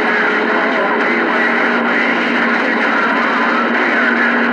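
CB radio receiver hissing with static, weak garbled voices of distant skip stations wavering through the noise, and steady low heterodyne tones; the band is in rough condition.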